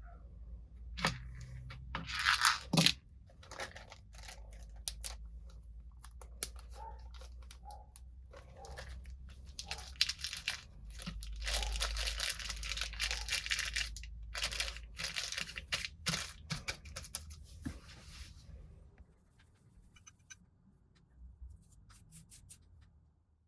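Rough scratchy rubbing and rustling in stretches, with scattered small clicks, heaviest in the second quarter-minute; it stops about 19 s in, leaving only a few faint ticks.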